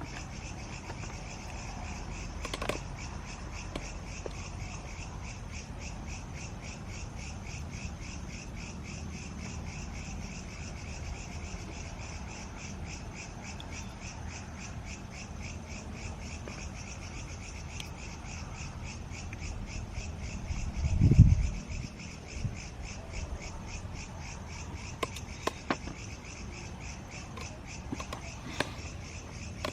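A steady chorus of small animals calling in an even pulsing rhythm, about three or four chirps a second. A loud low thump comes about two-thirds of the way through, with a few faint clicks around it.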